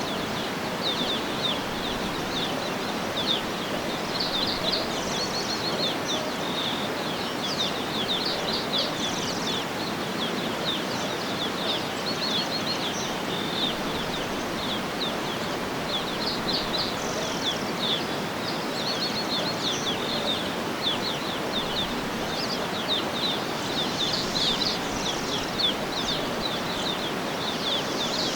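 Birds chirping in quick high runs of short notes, on and off throughout, over a steady background hiss of outdoor ambience.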